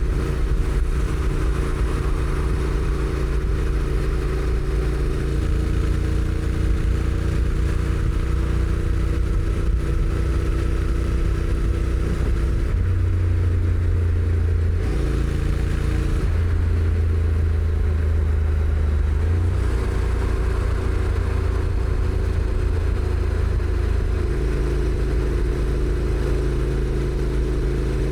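Honda NC750X's parallel-twin engine with stock exhaust running steadily under way, its note shifting up and down in steps several times, with a steady rush of road and wind noise.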